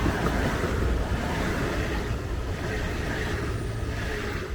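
Train passing close by: a steady rumbling, rushing noise that falls away near the end.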